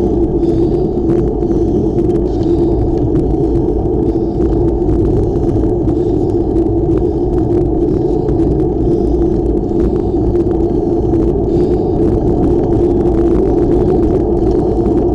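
Steady loud rumble of wind and road noise on the microphone while riding a bicycle, with faint scattered ticks.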